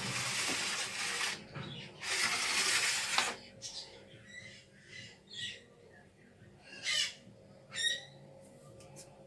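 Two loud rushes of noise in the first three seconds, then a bird giving several short calls, the last two near the end rising in pitch.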